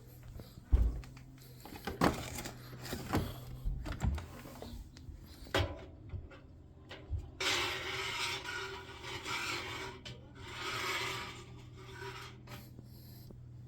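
Knocks and clatter from a washing machine being handled, then two stretches of rubbing, scraping noise, over a steady low hum.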